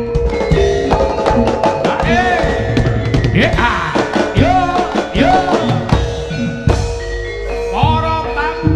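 Live Javanese jaranan ensemble music: drum strokes and struck metal keyed instruments over a steady pulse, with a wavering melody that bends and swoops in pitch.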